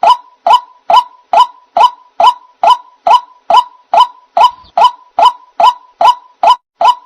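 White-breasted waterhen (ruak-ruak) call used as a bird-trapping lure: one short, identical note near 1 kHz repeated at an even pace, a little over two a second.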